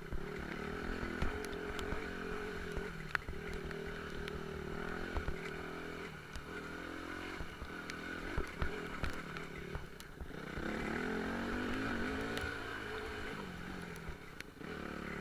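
Off-road motorcycle engine running, its pitch rising and falling as the throttle is worked, with scattered sharp clicks and knocks.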